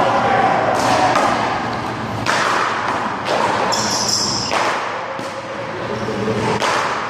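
One-wall handball rally: a small rubber handball slapped by hand, smacking the wall and bouncing on the court, a series of sharp hits at irregular intervals about a second apart.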